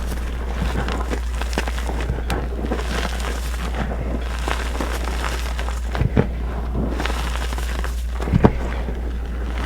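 Reformed blocks of gym chalk being crushed and crumbled, a dense crunchy, gritty crackling. There is a louder crunch about six seconds in and another near the end.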